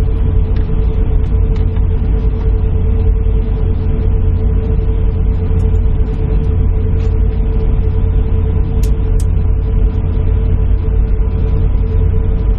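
Airliner cabin noise from the jet engines and air conditioning: a steady low rumble with a constant whine.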